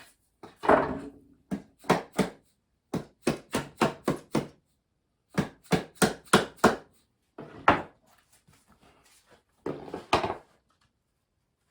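Sharp wooden knocks as compressed-wood subfloor tiles are tapped together into place: more than a dozen blows in quick runs of three to six, with short pauses between runs and a longer one near the end.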